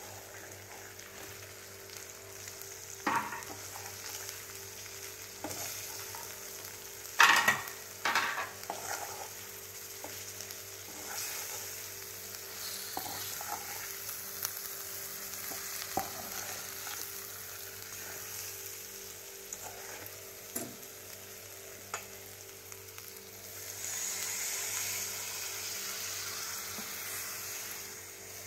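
Prawns and masala sizzling in a steel pot while being stirred with a metal ladle, which knocks against the pot a dozen times, loudest twice about seven and eight seconds in. The sizzle grows louder about three seconds before the end.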